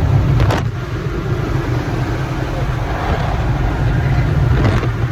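Automatic car wash air dryers blowing, a loud steady rumble heard from inside the car through an open window, with a short knock about half a second in and another near the end.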